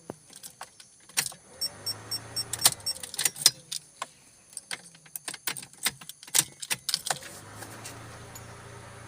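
Car keys jangling and clicking in a Proton Wira's ignition, a string of irregular sharp clicks. A steady low hum sets in near the end.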